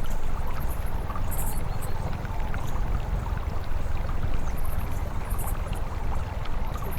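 Wind buffeting on the camera microphone of a moving motorcycle, a steady low rumble.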